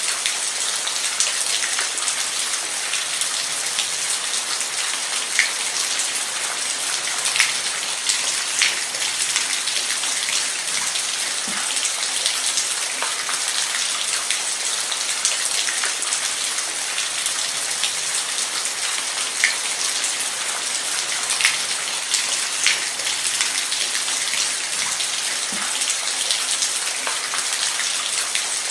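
Steady rain falling, a dense high hiss with heavier drops ticking sharply here and there.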